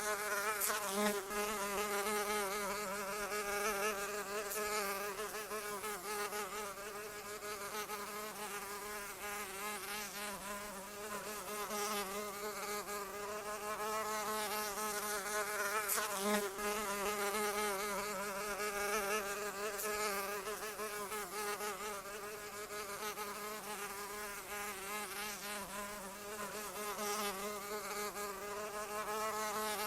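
A flying insect's wings buzzing in a continuous hum whose pitch wavers slightly, without a break.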